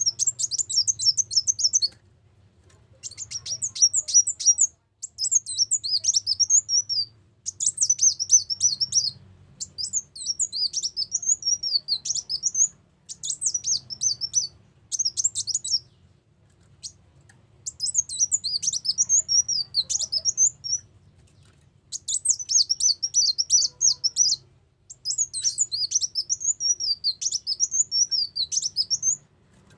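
Sunbird (kolibri ulung) song as a lure call: about nine high, rapid twittering phrases, each lasting one to three seconds with short pauses between, over a faint low hum.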